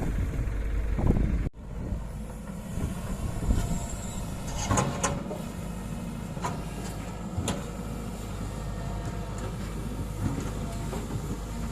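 Swaraj 744 FE tractor's diesel engine running under load while pulling a loaded trolley, a steady low rumble with a few sharp clanks. The sound drops abruptly about a second and a half in, then carries on steadier.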